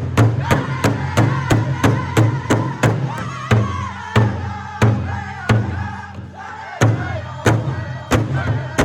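Powwow drum group singing in chorus over a large shared drum struck in a steady beat, about three strokes a second. About three seconds in, the strokes become slower and more widely spaced while the singing carries on.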